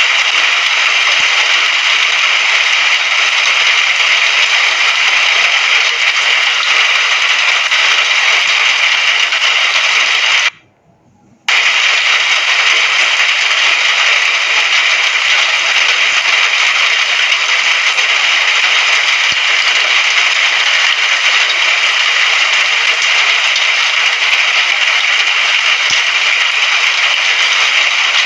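Recorded rain falling steadily as a dense, even hiss, cutting out abruptly for about a second around ten seconds in before resuming unchanged.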